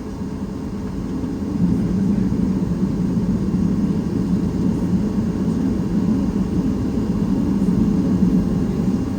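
Cabin noise inside a Boeing 737 MAX 8 with its engines running: a steady low hum that grows a little louder about one and a half seconds in.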